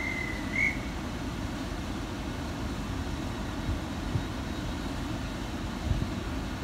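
Steady low rumble of an intercity train standing at a platform, mixed with wind buffeting the microphone in a few gusts. A brief high whistle-like tone sounds right at the start, rising slightly at its end.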